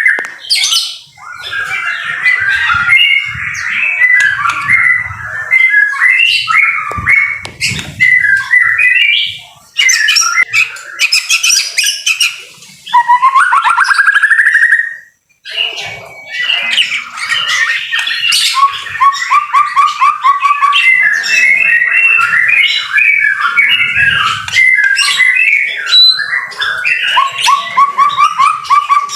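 White-rumped shama (murai batu) singing a long, loud, varied song of whistles, harsh chatters and rapid repeated-note trills, with a brief pause about halfway through.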